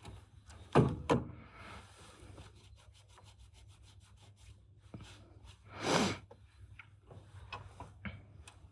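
Car-repair handling noises: two sharp knocks about a second in, then a run of quick, evenly spaced clicks, and a brief scraping rub about six seconds in.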